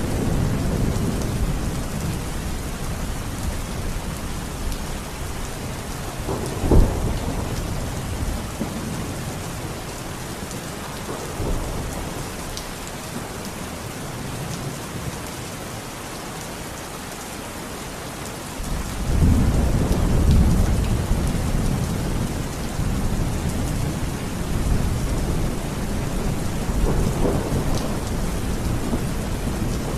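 Steady rain falling, with thunder. A sharp crack of thunder comes about a quarter of the way in, and a long low rumble builds about two-thirds of the way through, then slowly dies away.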